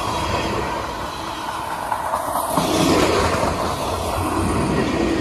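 A train rolling past on the rails, a continuous rumble of wheels on track that swells slightly about halfway through.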